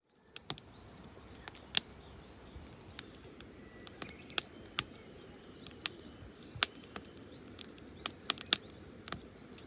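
Irregular sharp crackles and snaps, a dozen or so spread unevenly, over a steady low noise, with faint bird chirps in the background.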